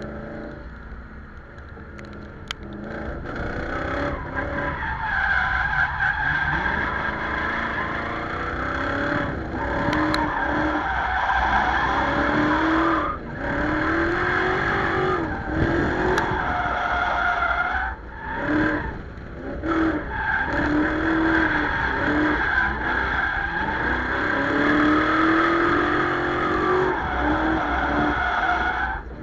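Drift car engine revving up and down repeatedly while its tyres squeal through long slides. The sound builds from quieter in the first few seconds and has brief drops near the middle where the engine lets off.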